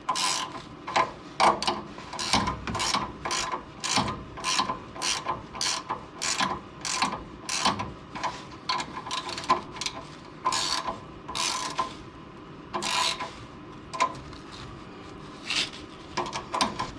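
Ratchet wrench clicking in short repeated strokes as the nut of an exhaust clamp is tightened down over a wrap patch on the exhaust pipe, with a brief pause a little past the middle.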